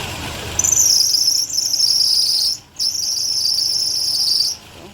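Toyota Highlander V6 engine running at a rough idle just after being started, freshly cleaned spark plugs back in. Over it, a loud high-pitched buzz comes in two long stretches with a brief break near the middle, and it is the loudest thing heard.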